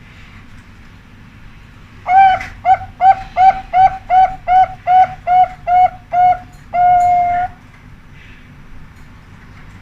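Zebra dove (perkutut) song: an opening coo, then a quick run of ten short clipped coos, ending in one long held note. The drawn-out final note is the 'ujung', the song's ending, which perkutut contests judge.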